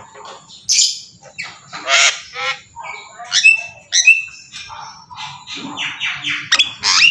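Bird calls: a string of loud, short squawks in quick succession.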